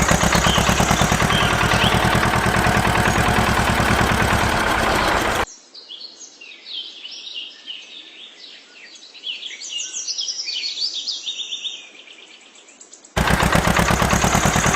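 A power tool rattling fast and evenly, then stopping for several seconds while birds chirp, then starting again near the end.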